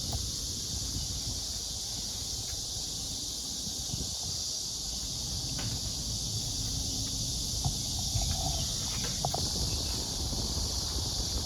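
A steady, high-pitched chorus of insects droning without a break, over a low rumble with a few faint knocks.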